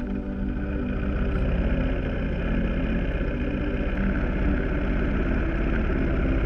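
Motorcycle engine running steadily, recorded through a poorly placed GoPro.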